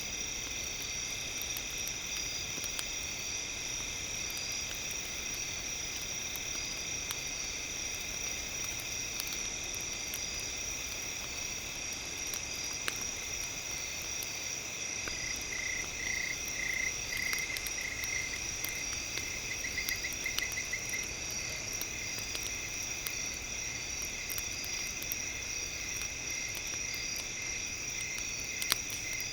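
Steady night chorus of crickets and other insects, with a run of pulsed chirping trills in the middle, over light crackling of a campfire.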